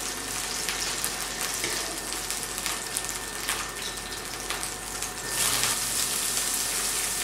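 Chopped onions with ginger-garlic paste sizzling and crackling in a frying pan while a fork stirs them. The hiss grows louder for a moment about five seconds in.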